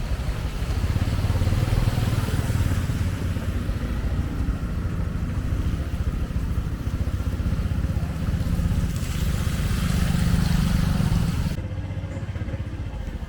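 Motorcycle engines running amid street traffic noise, with a broad hiss over a low rumble; the hiss drops away suddenly near the end.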